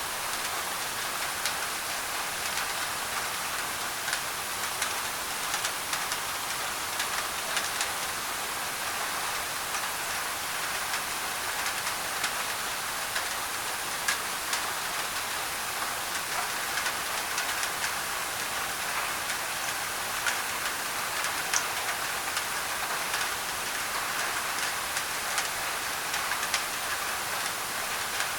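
Steady rain on a thin tin roof: an even hiss with many sharp, scattered drop ticks.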